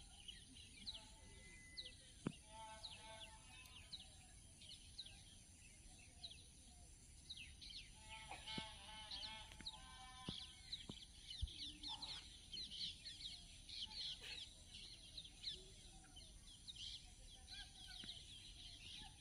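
Faint birdsong: many short, high chirps throughout, with two longer runs of rapidly repeated calls, one about two seconds in and one around the middle.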